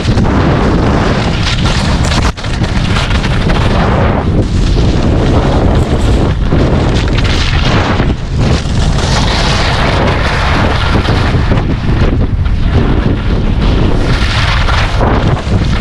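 Loud wind buffeting the microphone of a skier moving fast downhill, a continuous low rumbling rush that swells and dips every couple of seconds.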